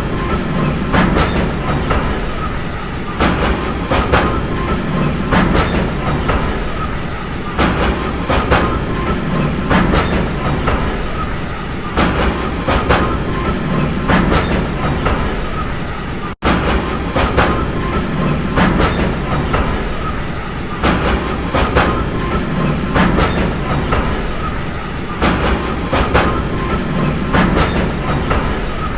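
Railway train running along the track: a steady rumble with the clickety-clack of wheels over rail joints, sharp clicks coming in pairs and small groups about once a second, and a faint thin squeal above. The sound cuts out for an instant a little past halfway, then carries on the same.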